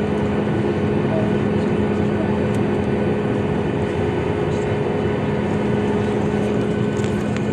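Boeing 737 MAX 8 cabin noise: a steady rush of engine and airflow with a constant low hum and a higher steady tone, the engines holding an even power.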